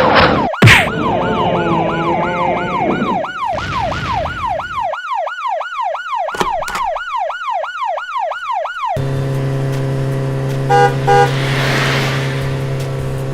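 Emergency-vehicle siren sweeping up and down in quick repeated cycles, a little under three a second. About nine seconds in it gives way to a steady low drone with a couple of short beeps.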